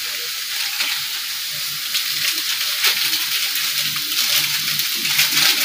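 Blended chilli-shallot spice paste sizzling as it fries in an aluminium wok, with a few sharp clicks and scrapes of a spoon stirring it. The paste is being cooked down until its water is gone and it turns fragrant.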